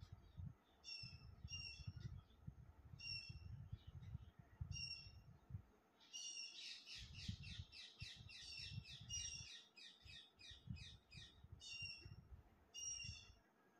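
Small bird chirping faintly in short paired notes, breaking into a rapid run of chirps for about four seconds from around six seconds in, then back to paired chirps near the end. A faint, uneven low rumble runs underneath.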